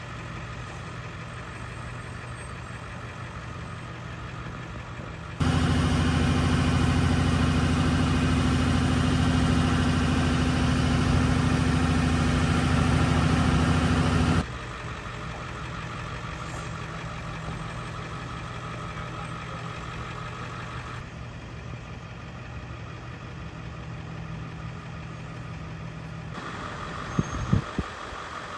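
Engines running at a steady idle, a constant low hum with no rise in pitch. The hum is much louder for about nine seconds in the middle, starting and stopping abruptly, and a few short knocks come near the end.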